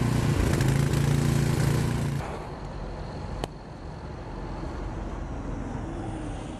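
A vehicle engine running with a steady low hum, which drops away about two seconds in, leaving quieter street noise; a single sharp click about halfway through.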